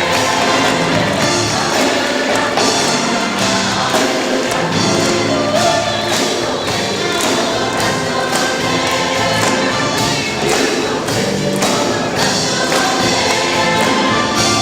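Gospel choir singing over an accompanying band with a steady beat.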